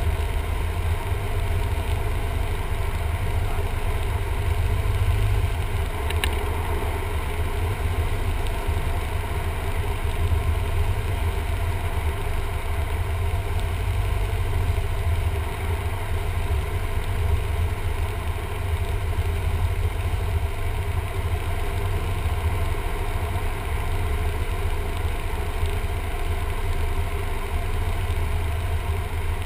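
Cessna 172M's four-cylinder Lycoming piston engine and propeller running steadily, a constant low drone with no change in power. There is a single faint click about six seconds in.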